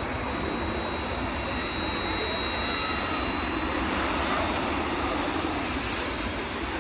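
Jet airliner engines running, a steady rushing noise that swells slightly near the middle and eases off toward the end.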